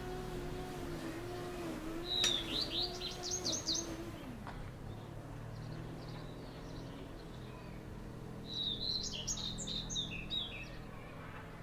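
A songbird sings two quick, high, twittering phrases, one about two seconds in and another near the end. Beneath the first, a low steady hum wavers slightly, then drops in pitch and stops about four seconds in.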